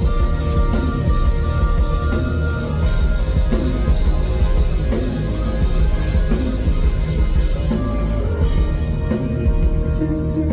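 Live rock band playing an instrumental passage with electric guitars and a drum kit, before the vocals enter.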